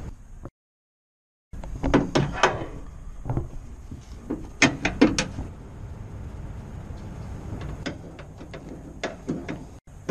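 Clusters of sharp metallic clicks and clacks from a van's door handle and latch mechanism being worked, with single clicks in between, over a low steady background rumble. The sound drops out to dead silence for about a second shortly after the start.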